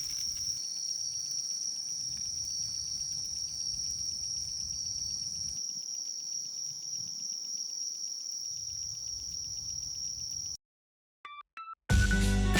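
Crickets singing outdoors, a steady high-pitched trill with a faint low rumble beneath. The trill cuts off suddenly near the end, followed by a few short chime-like notes and then music starting.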